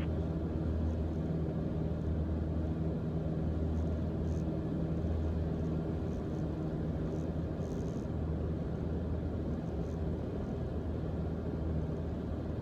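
Mooney M20J's four-cylinder Lycoming IO-360 engine and propeller running steadily in flight, heard in the cabin as a constant low drone with a few steady deep tones.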